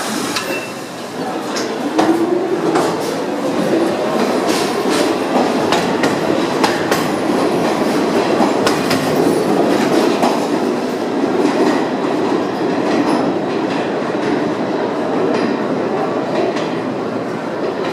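R46 subway train pulling out of the station, the cars clattering over rail joints with a steady stream of clicks. A rising motor whine comes in about two seconds in as it picks up speed.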